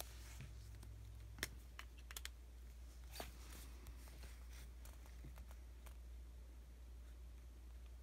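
Stickers and paper being handled on a diary page: a few light clicks and taps, with one short rustle about three seconds in. The second half is mostly quiet apart from a low steady hum.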